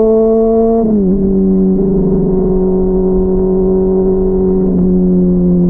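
Honda CBR600RR inline-four engine running, muffled. Its pitch climbs slowly, drops sharply about a second in, then holds steady and eases slowly down.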